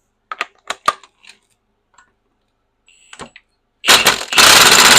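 A few light metallic clinks of small parts being handled, then about four seconds in a power impact tool starts hammering loudly, breaking the bolts on a skid steer's hydraulic control valve free.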